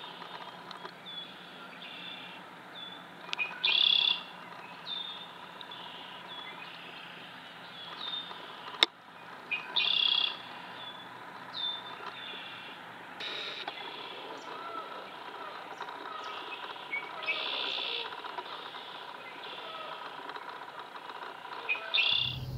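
Small birds calling around a marsh: short, high chirps that drop in pitch, repeated every second or two, with a few louder, fuller calls. A single sharp click comes about nine seconds in.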